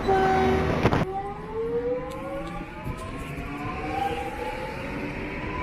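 Electric train pulling away: a steady tone for about a second ends in a knock, then the traction motors whine in several layered tones that rise slowly in pitch as it accelerates.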